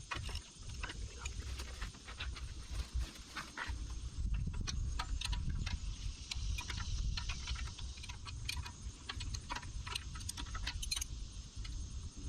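Irregular metallic clicks and clinks of a wrench and the 9/16 nuts and bolts that hold the backhoe bucket pins, as they are loosened and taken out, over a low rumble.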